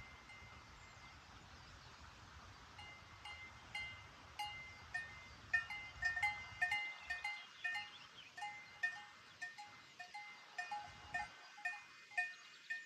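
Several livestock bells clanking irregularly at a few different pitches, growing busier after the first few seconds.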